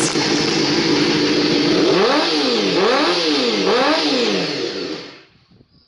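Honda Hornet 250's inline-four running through a short aftermarket exhaust. It holds at steady high revs, then is blipped up and down three times, about once a second. Near the end the engine sound dies away.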